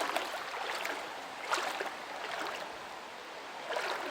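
Steady rushing of stream water, with a couple of brief louder splashy bursts.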